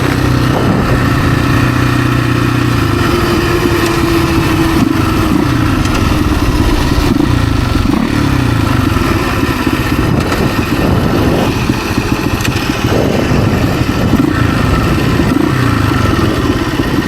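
Husaberg FE 350 dirt bike's four-stroke single-cylinder engine running while being ridden, its revs rising and falling as the throttle is worked, with one clear drop in revs about five seconds in.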